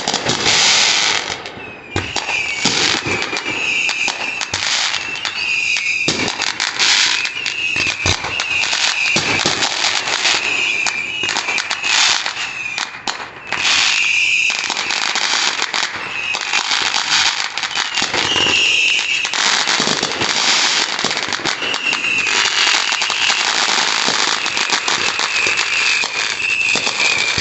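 Fireworks display going off continuously: a dense run of bangs and crackling with hardly a pause. A high wavering whistle comes and goes throughout.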